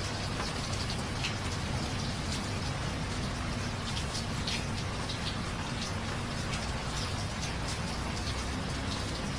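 Steady rain: a continuous hiss with many individual drops ticking close by, several a second.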